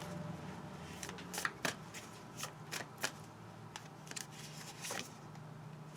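Tarot cards being shuffled by hand: a string of sharp, irregular snaps and slaps of card stock, mostly between about one and five seconds in.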